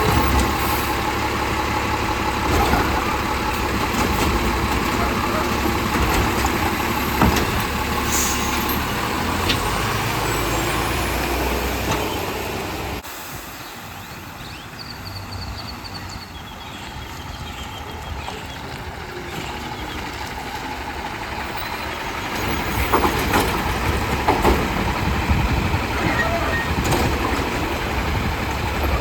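Autocar WX64 side-loader garbage truck running close by. The loud diesel engine sound drops off suddenly about thirteen seconds in, then builds up again over the last several seconds.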